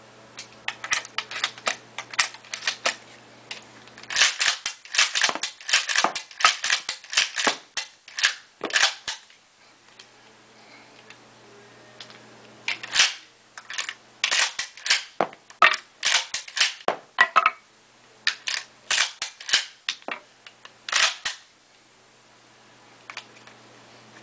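APS CAM870 airsoft shotgun's action being worked: runs of sharp clicks and clacks, several a second, broken by pauses of a few seconds. A faint steady low hum is heard in the pauses.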